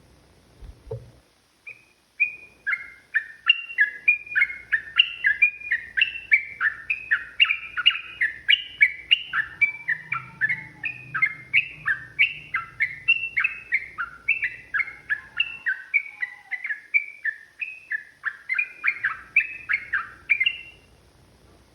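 Sooty-headed bulbul (trucukan) singing a long, unbroken run of short sliding notes, about three a second, starting about two seconds in and cutting off near the end. A brief click comes just before the song.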